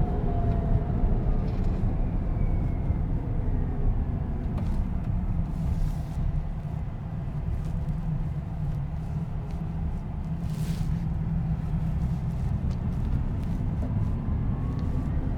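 Steady low road and tyre rumble inside a Tesla Cybertruck's cabin while driving, with a faint whine falling in pitch in the first couple of seconds.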